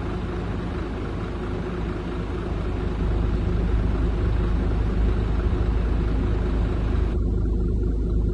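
Heavy diesel engine running with a steady low rumble that grows louder about three seconds in. A hiss over it cuts off near the end.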